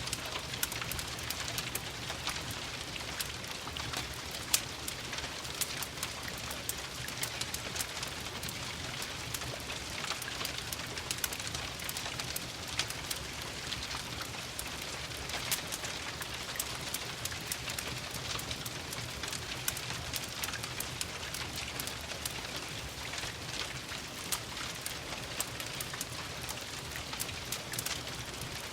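Steady rain patter mixed with a crackling wood fire: a constant hiss peppered with many small sharp pops and ticks, one louder pop about four seconds in.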